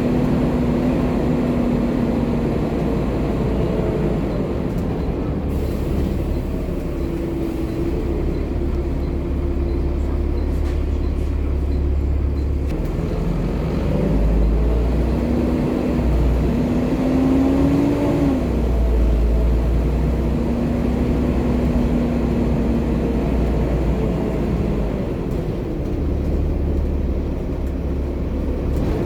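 Volvo B7TL double-decker bus with a D7C six-cylinder diesel, running under way: a steady low drone with whining tones that hold, then climb and drop back as it accelerates and changes gear, most clearly about 18 seconds in.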